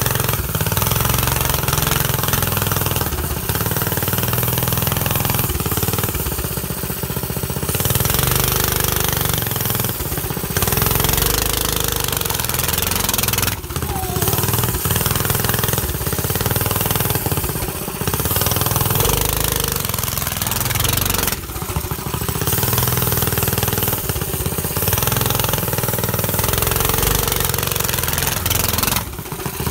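Go-kart engine running loud through a motorcycle exhaust as the kart is driven, the throttle opening and easing off with short lulls several times.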